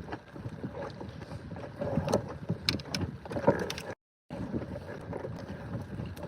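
Irregular knocks, clicks and rustles of handling a netted fish aboard a small inflatable boat, with wind on the microphone. The sound drops out completely for a moment about four seconds in.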